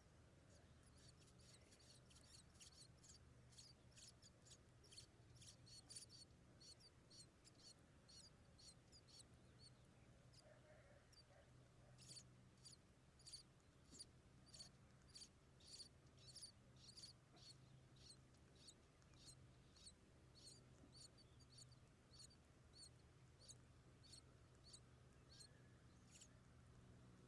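Faint, thin, high-pitched chirps from small birds at a nest, repeated two or three a second, thinning out for a few seconds about a third of the way through.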